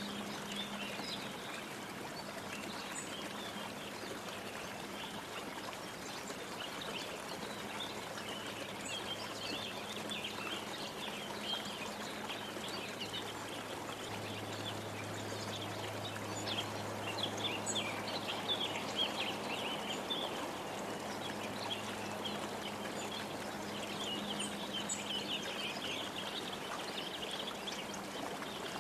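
Many small birds chirping and twittering continuously over a steady rushing background like running water, with a faint low hum underneath.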